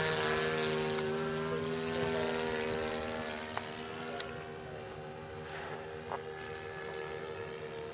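The .91-size glow engine of a VQ Hawker Hurricane RC warbird in flight, running steadily with a chugging note. It fades as the plane moves away.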